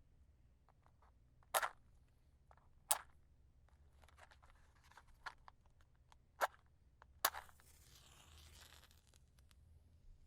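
Wooden matches being handled and struck: a few sharp clicks and light taps, then a strike about seven seconds in followed by a hiss lasting over a second as the match flares.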